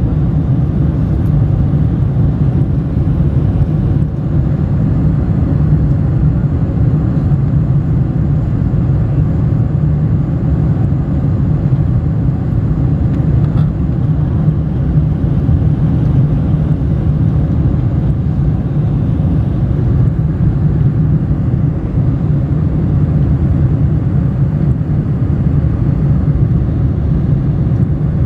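Boeing 747-400 airliner on its landing approach: a steady, even low rumble of engines and airflow that holds at one level throughout.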